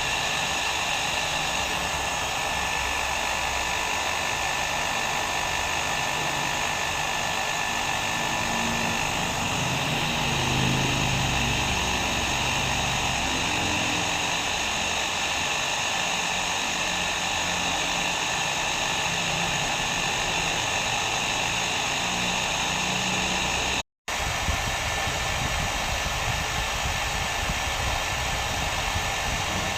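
Hair dryer running steadily: a constant rush of air with a faint steady motor whine. Late on, the sound cuts out completely for a split second, then carries on as before.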